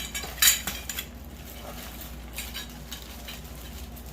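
Metal grow-tent frame poles clinking and clattering as they are handled and fitted together, with one sharp clatter about half a second in, a few lighter clicks just after, and then occasional faint clicks.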